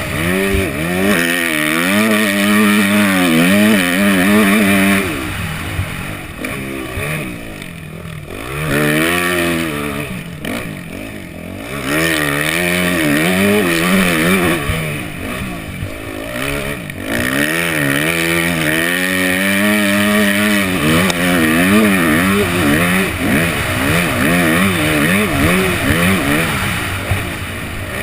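Yamaha 250F four-stroke single-cylinder motocross engine being ridden hard, its revs climbing and falling over and over through the gears. Between about five and twelve seconds in the engine drops to lower, quieter revs before pulling hard again.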